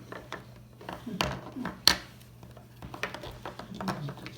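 Small plastic toy pieces being handled, clicking and clattering against a plastic toy jet, with one sharp click about two seconds in.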